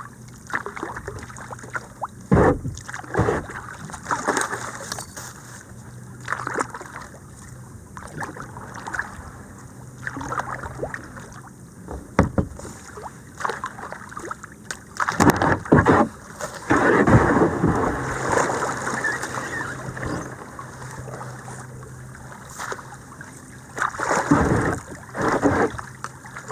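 A kayak being paddled down a shallow creek: irregular paddle splashes and water noise, with occasional knocks, louder about halfway through and again near the end.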